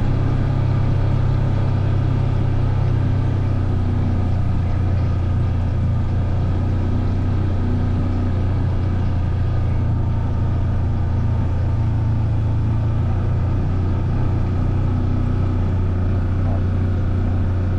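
Vehicle engine running steadily under way, a loud low hum holding an even pitch.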